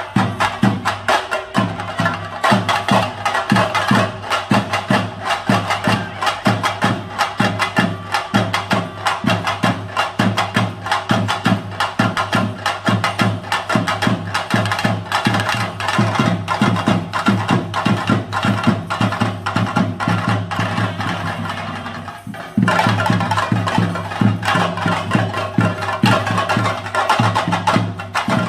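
Chenda drums played in Theyyam style: dense, rapid stick strokes in a driving rhythm. The drumming drops away briefly about 22 seconds in and comes back abruptly.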